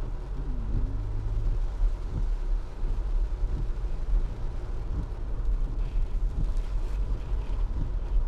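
Low, steady rumble of a car heard from inside the cabin as it creeps along in slow traffic: engine and road noise, with small irregular thumps.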